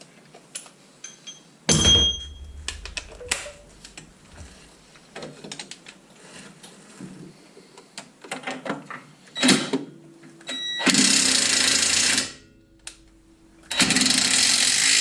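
Impact wrench (rattle gun) hammering on suspension ball-joint nuts in two really loud bursts, each about a second and a half, near the end. Before them come clinks and knocks of tools on metal, and a sharp ringing metal clank about two seconds in.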